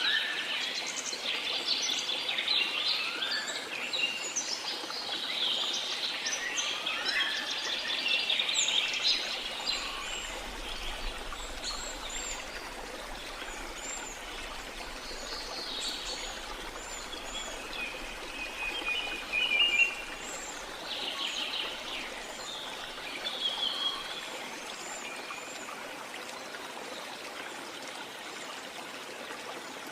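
Rainforest ambience: many birds chirping and calling over a steady rush of rain and running water. The birdsong is thick for the first third and then thins to scattered calls.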